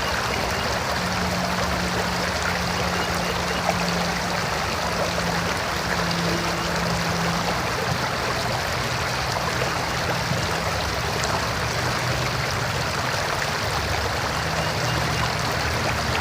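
River water flowing steadily, an even rushing of a stream. A faint low hum runs underneath and comes and goes.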